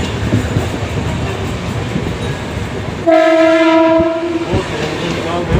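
Mumbai suburban local train running, with the rumble and clatter of its wheels on the track; about three seconds in, a train horn sounds one steady blast lasting about a second and a half, the loudest sound here.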